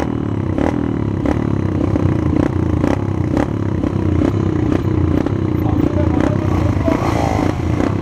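Small minibike engine running steadily, with a sharp click repeating about twice a second over it.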